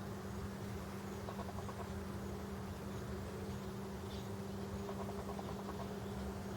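Birds chirping in short, rapid trills, twice, over a steady low hum.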